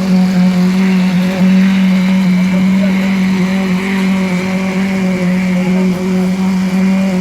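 An engine running steadily at a constant speed, an even hum with a slight waver.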